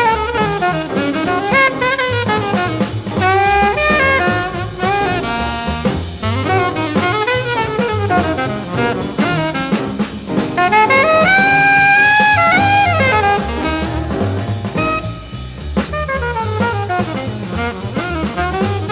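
Live bebop jazz sextet playing: a single horn line leads over walking bass, piano comping and drums on brushes or cymbals, with one long held note from about eleven to thirteen seconds in.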